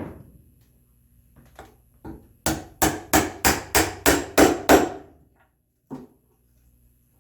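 Mallet striking a chisel chopping an angled mortise in red oak: a knock, a few light taps, then a quick run of eight sharp blows about three a second, and one last tap.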